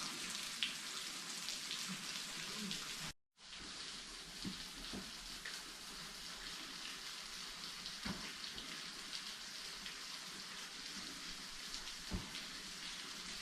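Small waterfall splashing, a steady rush of falling water, with a few faint taps over it and a brief dropout about three seconds in.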